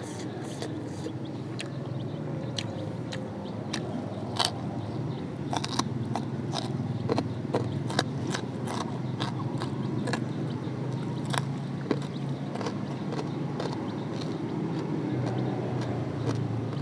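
Close-up chewing and eating, with many sharp mouth clicks and smacks over a steady low rumble.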